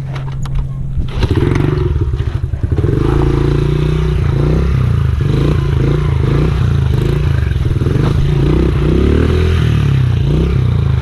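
Honda XR70R pit bike's small four-stroke single-cylinder engine, near idle for about a second, then opened up and running under throttle with its pitch rising and falling as the rider holds a slow wheelie.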